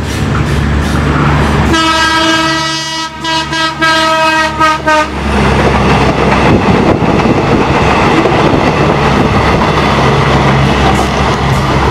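A diesel multiple unit sounds its horn, one pitched blast of about three seconds that breaks into short pulses at its end. It then runs past close by, its engine droning under the rumble of its wheels on the rails.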